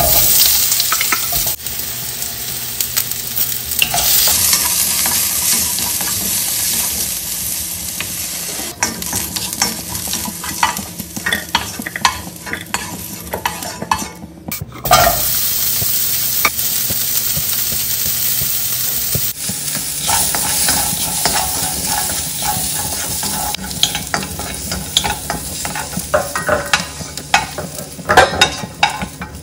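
Cubed potatoes, then carrot pieces, frying in hot oil in a carbon-steel wok: a steady sizzle with the clicks and scrapes of a wooden spoon stirring them. The sizzle breaks off briefly about halfway through, then resumes.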